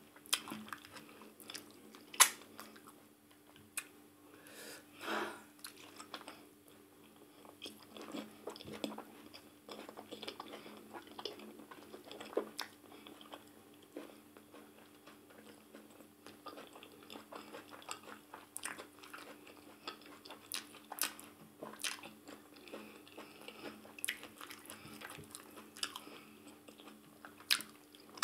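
Close-up mouth sounds of eating ogbono soup and fufu by hand: irregular wet smacks and clicks of chewing, with a sharp louder smack about two seconds in. A faint steady hum runs underneath.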